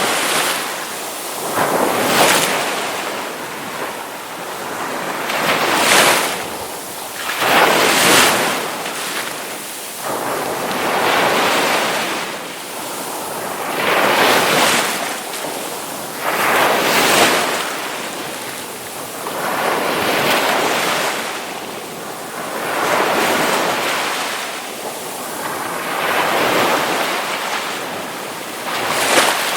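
Ocean waves breaking on a shore: surges of surf that swell and fade every few seconds.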